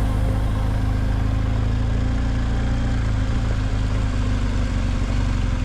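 Motorcycle engine idling steadily, an even low-pitched running sound with no revving.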